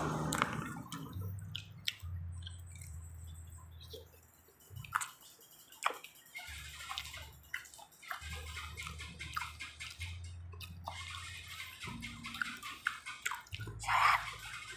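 Close, wet chewing and lip-smacking of people eating fried street food, with many small clicks and smacks scattered through.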